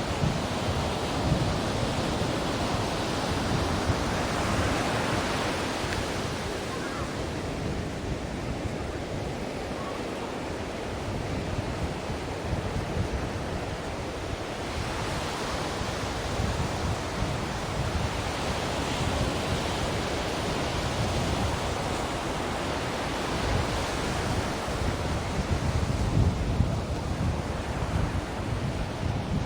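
Ocean surf: a continuous rush of waves breaking and washing in, swelling and easing back three times.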